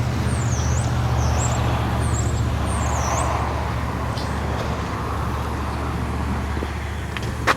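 Steady low rumble of a nearby motor vehicle engine, easing slightly later on. A small bird gives several quick, high, swooping chirps in the first three seconds, and there is a sharp click just before the end.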